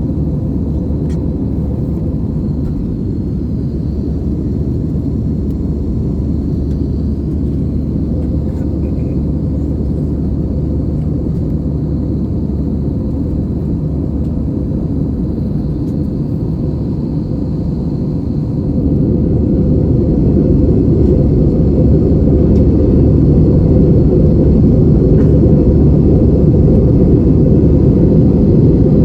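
Cabin noise inside an Airbus A320-family jet airliner in flight: a steady low rumble of engines and airflow, with a faint high hiss above it. It grows louder about two-thirds of the way through and holds at the higher level.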